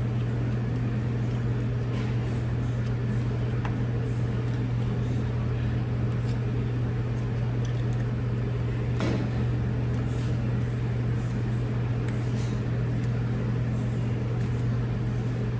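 A steady low drone with a few faint short clicks of eating and utensils.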